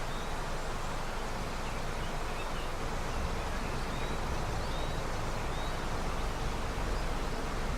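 River running high with snowmelt: a steady, unbroken rush of flowing water, with a few faint high chirps scattered over it.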